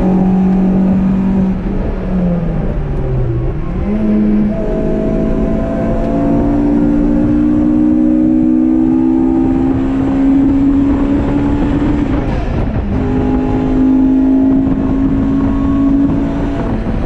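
Honda Civic's B16A2 1.6-litre DOHC VTEC four-cylinder engine running hard under track driving, heard from inside the cabin. The engine note falls for a moment about three seconds in, jumps back up, then climbs steadily under acceleration, drops at a gear change about twelve seconds in, and climbs again.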